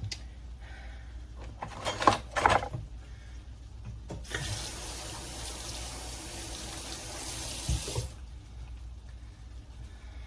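Kitchen sink tap running for about four seconds, starting about four seconds in and shut off near the eighth second, after a few light knocks and clinks of kitchenware.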